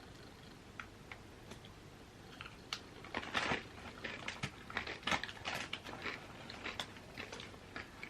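Crisp chips being bitten and chewed close to the microphone: a few scattered crunches at first, then dense, irregular crunching from about three seconds in.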